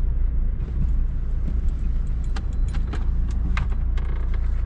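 Car driving slowly: a steady low rumble of engine and tyres, with a few light clinks and rattles about halfway through.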